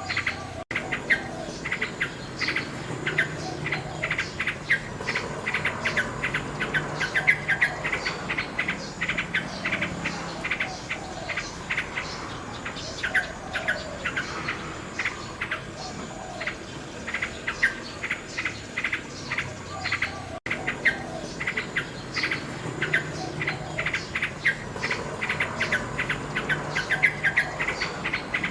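A common nightingale singing continuously: rapid runs of repeated notes and whistled phrases, with crickets or other insects chirping faintly behind. The sound drops out for an instant twice.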